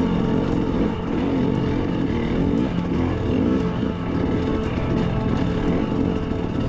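Dirt bike engine running under load on a trail ride, its revs rising and falling continually, with scattered light clicks and knocks.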